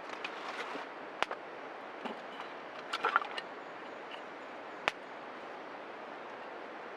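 Small wood fire crackling over a steady hiss, with scattered crackles and two sharp pops, about a second in and near five seconds in.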